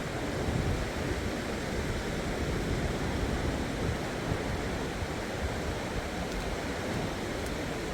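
Steady rush of sea surf breaking on the shore, mixed with wind on the microphone.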